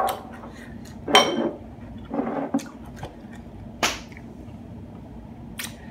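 Close-up eating sounds: a person chewing crunchy food, with several sharp crunches and mouth clicks at irregular moments.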